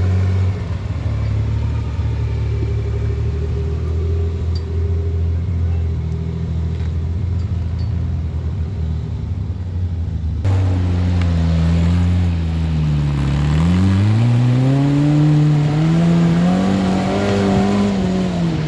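Off-road 4x4's engine running low and steady under load, then, after an abrupt change about ten seconds in, revving up and down several times as the rig crawls up a rock climb.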